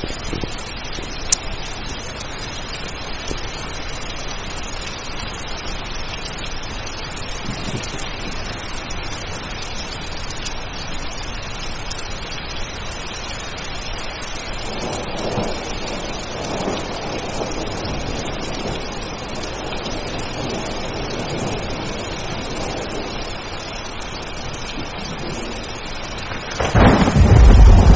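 Steady heavy rain with rolling thunder swelling in the middle, and a loud, deep thunderclap breaking near the end. A single sharp click sounds about a second in.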